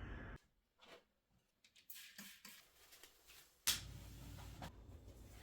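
Faint scattered clicks and rustles, like small handling sounds. Nearly four seconds in there is one sharp click, and a steady low background noise comes in with it.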